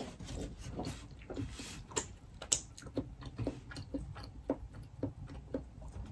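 Close-miked eating sounds: wet chewing, slurping and lip smacks on soft, sauce-coated food, coming as irregular soft clicks two or three times a second.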